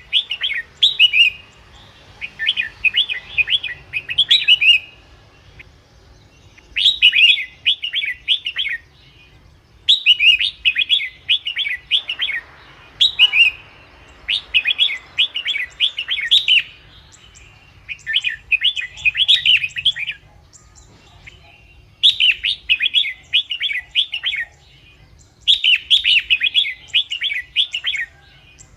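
Red-whiskered bulbul song: about ten bubbly phrases of quick, chirpy whistled notes, each lasting a second or two, with short pauses between them. It is the kind of song played to lure bulbuls or to excite a caged bird.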